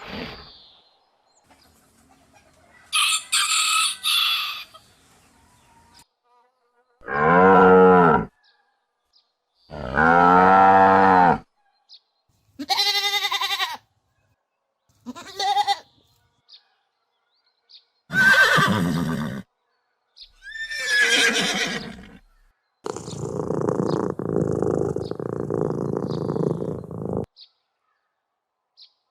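A series of separate farm-animal calls, about eight in turn with short silences between them, most of them pitched calls lasting a second or two. Near the end comes a longer unpitched call of about four seconds.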